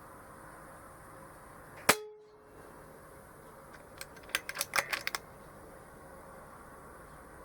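A single sharp crack of a shot from an Air Arms S410 .22 PCP air rifle, about two seconds in. About two seconds later comes a quick run of eight or nine clicks lasting about a second.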